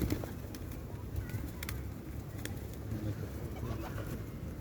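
Birds calling faintly over a steady low rumble, with a few short clicks.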